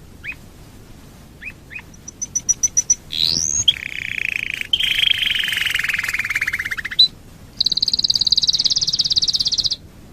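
Domestic canary singing: a few short chirps, a quick run of high notes, a rising sweep, then a long rapid trill that drifts slightly down in pitch; after a short pause, a higher, buzzier trill ends the phrase.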